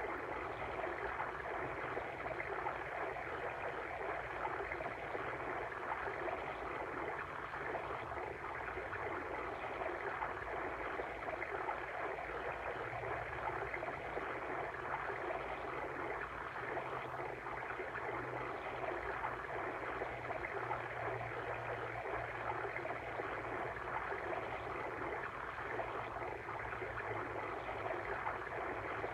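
Water stream flowing: a steady, even rush of running water with no breaks.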